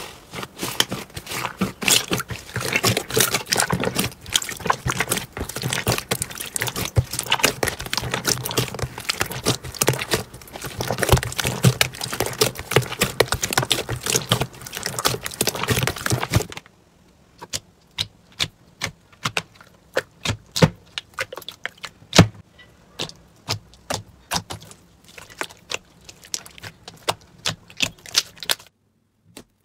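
Slime being squeezed and pressed by hand, giving a dense run of crackling clicks and pops. About halfway through it changes abruptly to sparser, separate pops.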